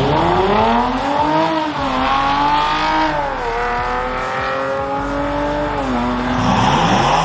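Drag race launch at full throttle, led by the 2012 Chevrolet Caprice PPV's LS V8 with its automatic transmission. The engine note climbs and drops back at upshifts about one and a half and three and a half seconds in, then holds as the cars run away down the strip. Near the end another engine starts climbing in pitch.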